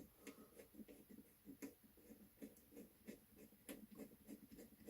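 Faint, irregular scratching and ticking of a drill bit worked into plastic, opening up a small hole in the radio's socket.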